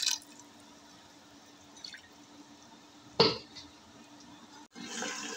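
Masala and beef trotters frying in oil in a pot: a faint low hum and light crackle, one sharp knock about three seconds in, and near the end a steady sizzle.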